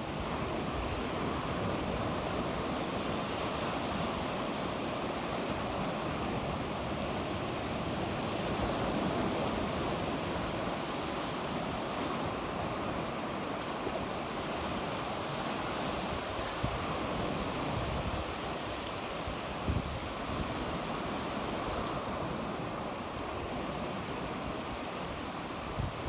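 Sea waves breaking and washing on the shore in a steady, even rush, swelling a little at times.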